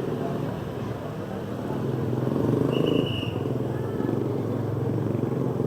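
A motor vehicle engine running steadily at idle, with a brief high tone about three seconds in.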